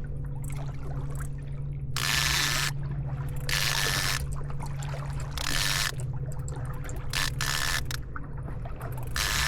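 Fishing reel buzzing in about six short, ratcheting bursts of roughly half a second each, over a steady low hum.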